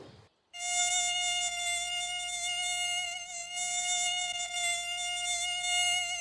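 Mosquito buzz sound effect: a steady, high, thin whine that wavers slightly in pitch, starting about half a second in.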